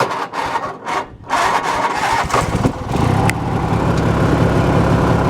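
Riding lawn tractor engine being cranked, catching after about a second and then running, settling into a steady run.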